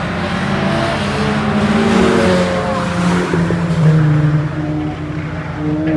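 Alfa Romeo 145 race car's engine running hard on track, its note climbing over the first couple of seconds and changing pitch about three seconds in, like a gear change, then pulling on steadily.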